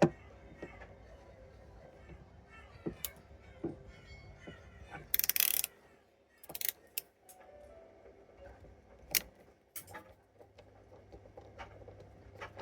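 Scattered clicks and taps of a screwdriver and small hard parts as a Torx 10 screw is undone and a car steering lock module is opened by hand, with a short loud rasp about five seconds in.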